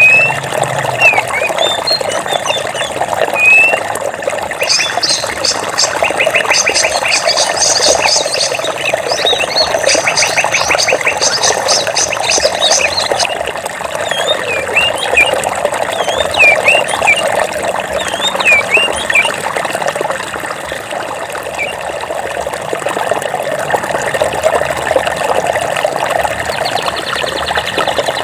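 Running stream water rushing steadily, with birds chirping in short rising calls over it. For several seconds early on a fast, high trill sounds over the water, and a shorter fast series comes near the end.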